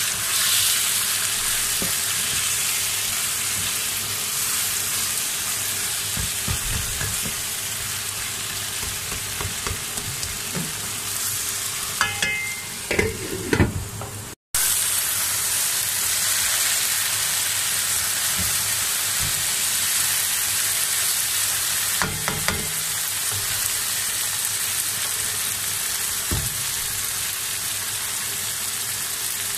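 Onion, tomato and green-chilli masala sizzling in oil in a non-stick pan, with a spatula scraping and knocking against the pan as it is stirred. The sizzling breaks off for an instant about halfway through and then carries on.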